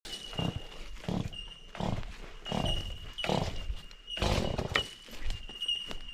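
Rhythmic, rough huffing sounds of a person exerting themselves climbing a steep slope, about one every three quarters of a second, over a faint steady high tone.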